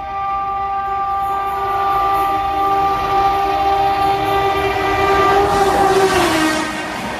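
Locomotive horn of a high-speed express train sounding one long, multi-tone blast that grows louder as the train approaches. Its pitch drops as the train passes about six seconds in, and the rush of the train going by follows.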